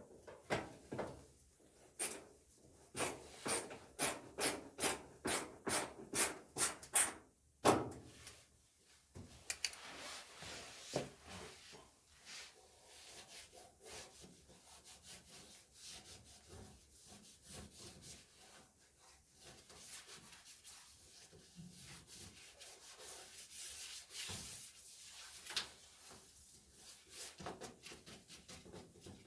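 Repeated rubbing strokes against a surface, about two a second for the first eight seconds or so, then quieter, irregular scraping and handling noises.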